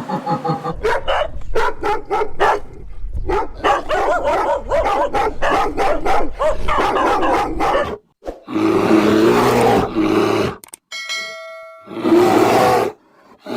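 A dog barking rapidly and repeatedly for about eight seconds. Then come two stretches of dense noisy sound with a brief ringing tone between them.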